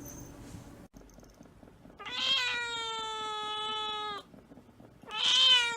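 Kitten meowing twice: one long, drawn-out meow about two seconds in, then a shorter, louder meow near the end.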